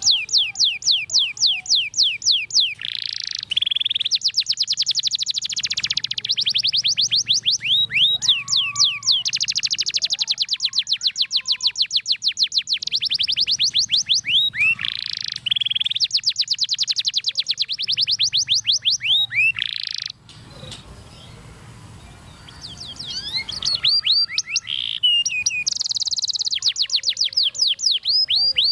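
Domestic canary singing long, fast trills of rapidly repeated sweeping notes. The song breaks off about twenty seconds in and starts again a few seconds later.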